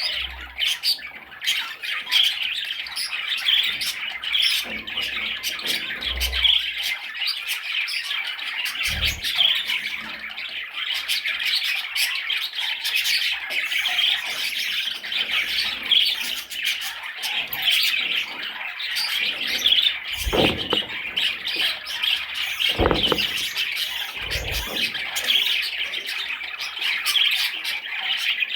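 Budgerigar chattering and warbling: a steady stream of fast, scratchy chirps and squawks, with a few short low thuds scattered through it.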